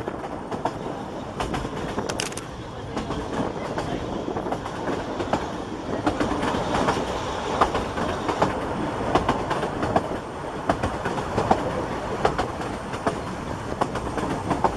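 Narrow-gauge railway carriage running at speed: a steady rumble and rattle, with the wheels clicking irregularly over the rail joints.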